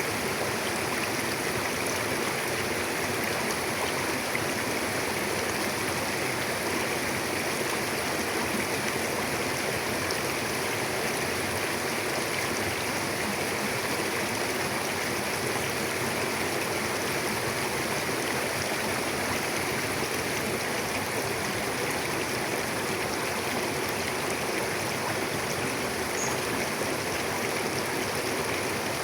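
Mountain river flowing, a steady unbroken rush of water.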